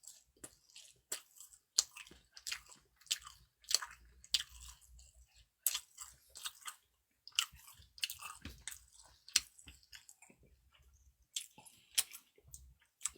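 A person chewing food close to the microphone: an irregular run of short wet smacks and clicks, with a lull of about a second near the end.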